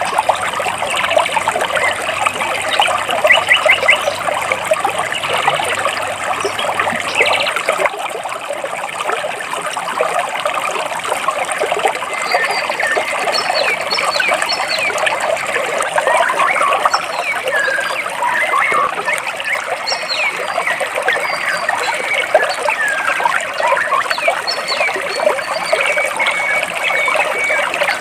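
Stream water trickling and burbling between rocks, steady throughout, with many small birds chirping over it in short repeated notes.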